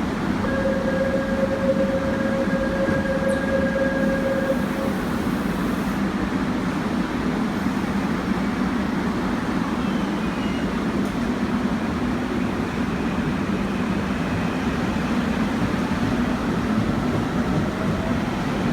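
Korail Line 1 electric multiple unit of the 311000 series pulling out of the station, its running and wheel noise steady throughout. A steady held tone sounds for about four seconds near the start, and a faint rising whine comes in near the end as the train picks up speed.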